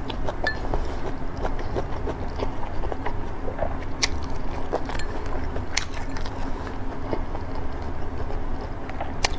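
Close-miked eating: soft chewing of braised pork belly and rice, with a few sharp clicks of wooden chopsticks against a ceramic bowl, over a steady low hum.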